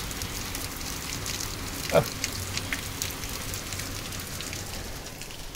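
Steady rain falling on a garden path and lawn, an even hiss dotted with many small drip and patter ticks. About two seconds in, a short sound slides quickly down in pitch.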